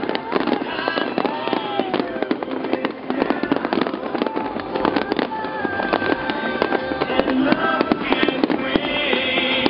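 Fireworks going off in rapid, irregular succession: a dense run of bangs and crackles, with music playing under them.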